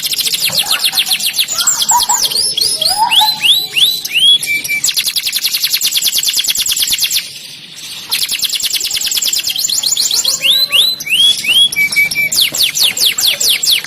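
Domestic canary singing: fast rolling trills alternating with runs of descending whistled swoops, with a brief pause about seven seconds in.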